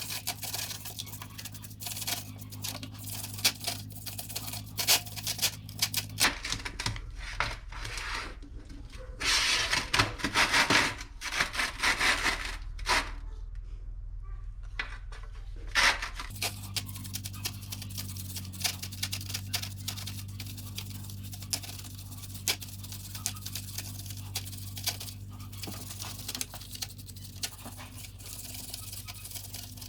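Motorcycle drive chain being scrubbed with a stiff brush during cleaning: fast scratchy rubbing with many small clicks from the chain links, and a louder hissing stretch about nine to twelve seconds in.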